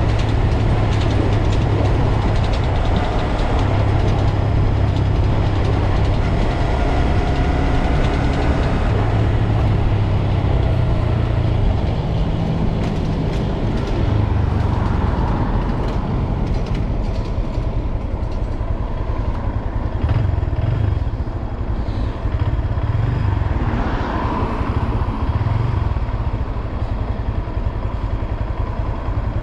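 Honda Grom's single-cylinder engine running as the motorcycle is ridden, with a steady rushing noise over it. The engine note holds steady for the first half, then rises and falls a few times in the second half.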